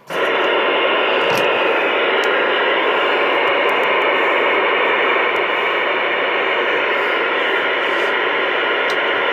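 Steady, loud radio static hiss, dull with no high end, switching on abruptly.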